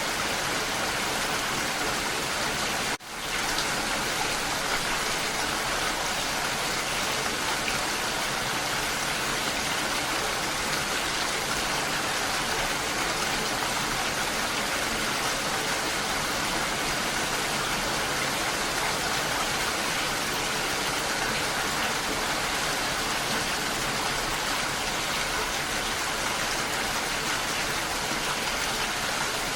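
Steady rain falling, a continuous even hiss of drops, which briefly dips and drops out for a moment about three seconds in.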